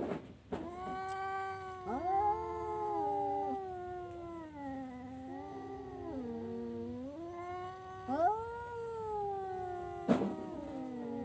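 Cat yowling (caterwauling) in long, drawn-out wavering calls of several seconds each, sliding up and down in pitch. Sharp knocks come near the start and about ten seconds in.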